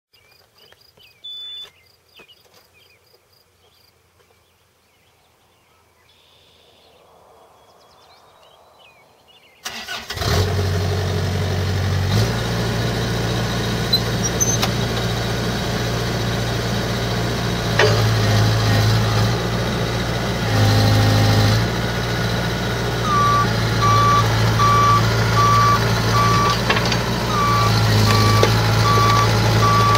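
Bobcat 334G mini excavator's diesel engine starting about a third of the way in, then running steadily, its note shifting now and then. In the last quarter the machine's travel alarm beeps repeatedly, a little under two beeps a second.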